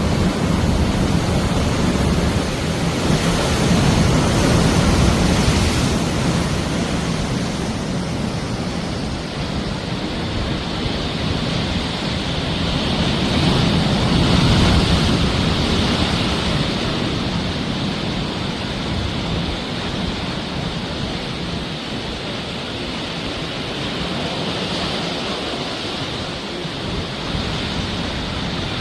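Sea waves surging and breaking on the shore: a continuous rushing wash that swells louder twice, about four seconds in and again about halfway through.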